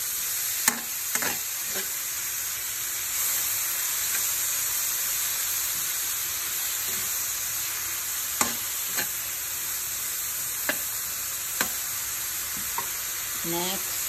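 Kimchi sizzling in oil in a nonstick frying pan while a metal spoon stirs it. The spoon clicks and scrapes against the pan now and then, a few times about a second in and several more in the second half.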